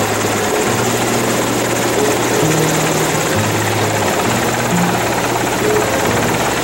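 Helicopter running steadily, a loud even rush, with music of slow held low notes playing over it.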